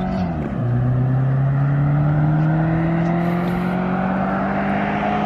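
Subaru Impreza 2.5 RS's flat-four engine with its muffler deleted, pulling under acceleration. The pitch drops quickly with an upshift about half a second in, then climbs slowly and steadily through the gear.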